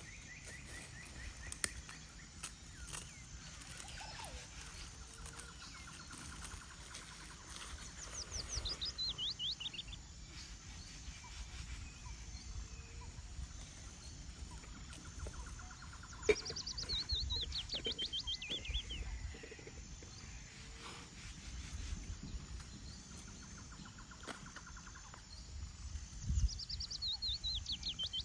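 Wild birds singing in a forest. A fast trill of high notes slides downward, repeated about three times roughly nine seconds apart, with softer, lower trills from another bird in between, over a steady low wind rumble.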